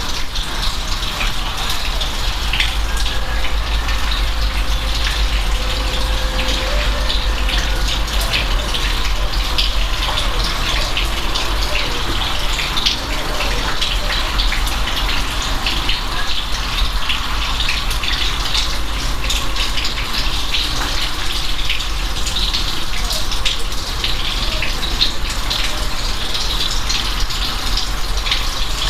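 Steady rain falling, a continuous wash of water noise with many distinct drop ticks on top and a steady low rumble underneath.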